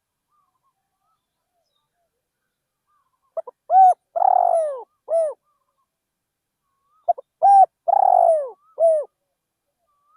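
Spotted dove cooing: two similar phrases, each of a couple of short notes, a long rolling coo and a shorter closing coo, the first about three seconds in and the second about seven seconds in.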